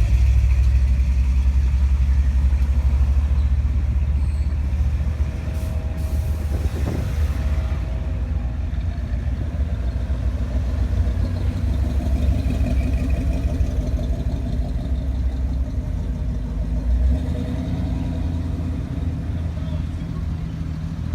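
Pickup truck engines running with a steady, low rumble.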